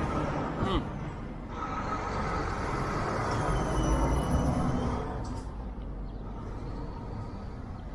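Road traffic going by: a passing vehicle swells and fades over a few seconds, with a faint high whine that rises and falls as it goes past.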